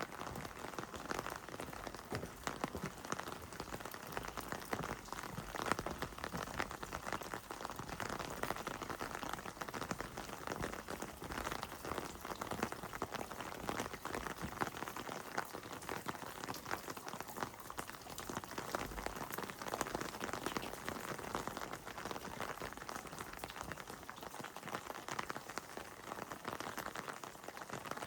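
Heavy rain falling steadily, a dense patter of countless drops striking wet surfaces.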